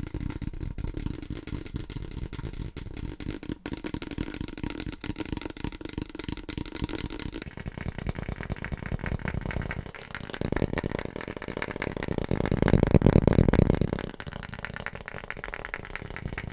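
Fast, aggressive fingertip tapping on assorted household items in quick runs of many taps a second. The tapped object changes about seven seconds in and again around ten seconds. The loudest, heaviest tapping comes between about ten and fourteen seconds.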